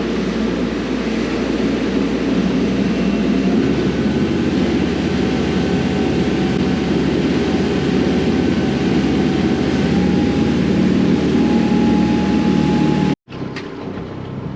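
Small boat's engine running steadily under way, with wind and water noise over it. It breaks off abruptly near the end, and a quieter boat noise follows.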